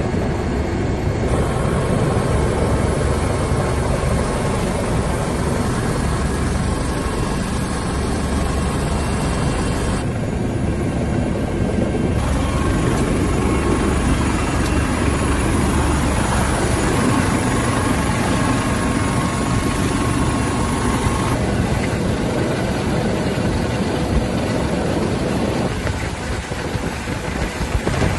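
Helicopter engine and rotor noise, loud and steady, changing tone abruptly several times.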